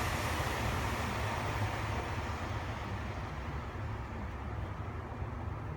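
Steady outdoor rumbling noise, with a hiss that fades over the first few seconds.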